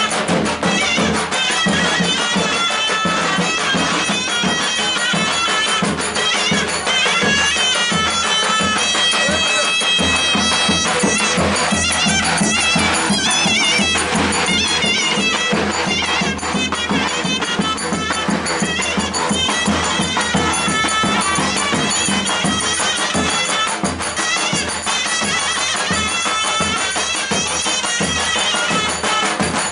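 Loud traditional Turkish folk dance music: a shrill, reedy wind melody over a steady drone and regular drum beats.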